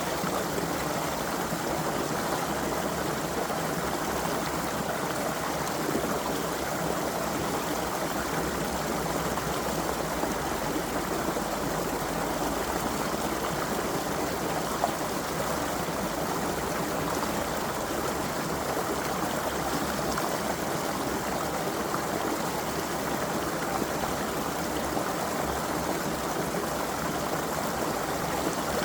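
Creek water running steadily, an even, unbroken rush of flowing water.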